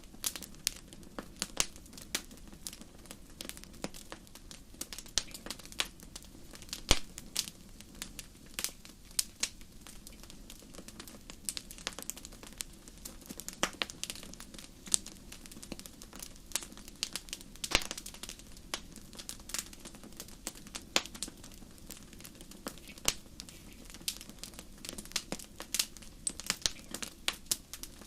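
Wood fire burning in a fireplace, crackling with many sharp pops at irregular intervals over a low steady rumble of the flames.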